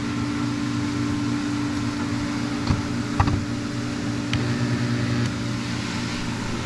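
Steady low machine hum in a workshop, with a few light clicks and taps from handling parts near the middle.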